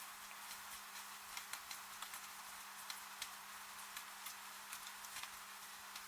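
Soft, steady rain hiss with irregular drops ticking and tapping several times a second, over a faint low steady hum.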